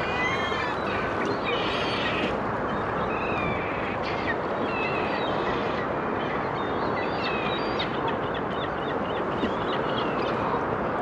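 Waterfowl calling: many short honks and squawks scattered throughout, over a steady background rush.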